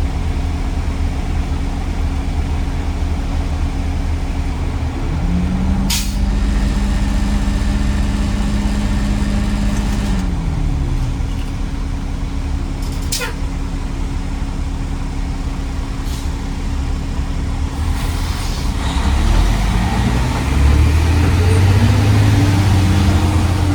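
Garbage truck's diesel engine running steadily, with two short sharp air-brake sounds about six and thirteen seconds in. Near the end the engine gets louder and rises in pitch as the truck accelerates.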